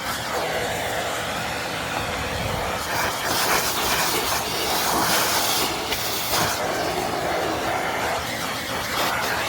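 Vacuum cleaner running: a steady airy rush that swells and eases a little as it works.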